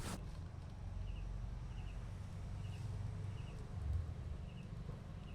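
A small animal giving short paired chirps, high-pitched and evenly spaced about one a second, over a steady low rumbling noise.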